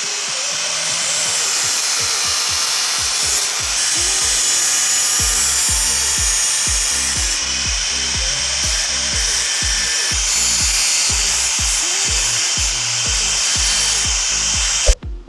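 A power tool running steadily on metal, its noise mixed with background music that has a steady beat; both cut off abruptly near the end.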